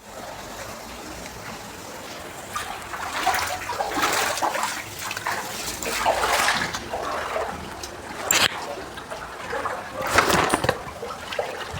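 Floodwater splashing and sloshing in a series of irregular surges over a steady wash of water noise.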